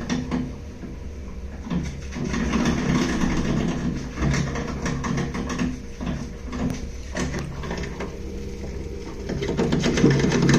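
Baxi Duo-tec 40 GA gas combi boiler in central-heating mode making loud, irregular banging and knocking over a steady low hum. The owner suspects restricted water flow through the heat exchanger.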